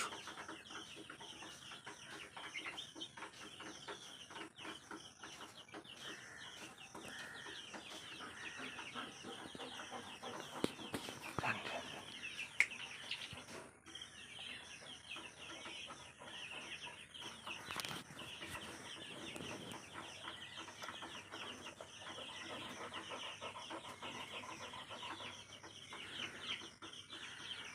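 Birds chirping and calling continuously, a dense high chatter with a few louder single calls now and then.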